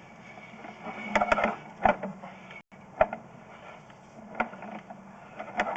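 About half a dozen short, irregular clicks and knocks over a steady low hum.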